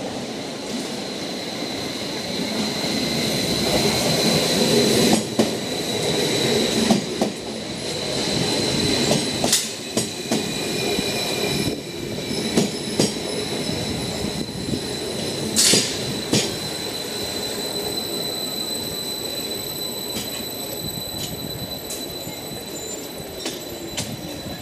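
Norwegian State Railways Class 75 (Stadler FLIRT) electric multiple unit pulling into the station and slowing to a stop. Its wheels rumble and give a steady high squeal, with several sharp clicks as they run over the rail joints and points. It grows louder as the train draws alongside, then eases off.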